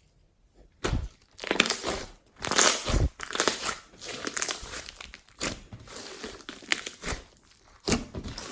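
Glossy slime being squished and kneaded by hand with gold mix-ins, crackling and crunching in irregular bursts that start about a second in.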